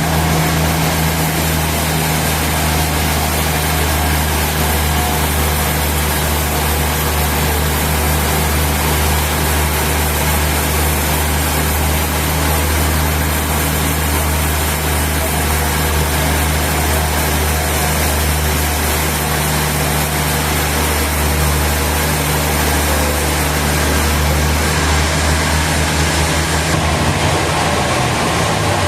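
Sawmill machinery running steadily: a heavy, loud low hum over a continuous noisy hiss. Near the end the low hum shifts in pitch.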